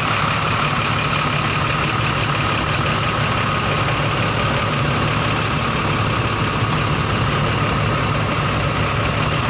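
Scania K380 bus's diesel engine idling steadily.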